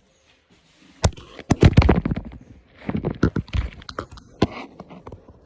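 Slime being squeezed and stretched in the hands, giving a rapid run of sharp pops and crackles from about a second in.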